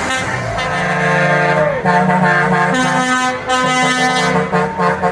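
Vehicle horns sounding loudly, several held tones overlapping and switching on and off in steps, one sagging in pitch as it tails off partway through.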